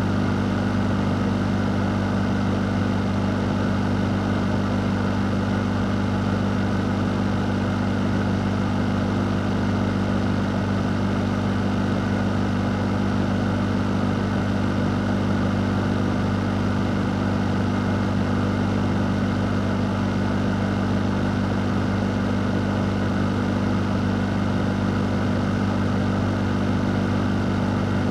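Fan running steadily: an even rush of air over a low, unchanging motor hum.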